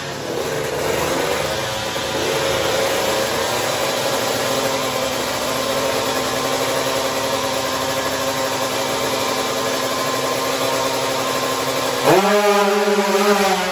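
Two drag-racing motorcycle engines held steadily at raised revs on the start line, then launching about twelve seconds in: a sudden jump in loudness and a fast-rising engine pitch as they pull away.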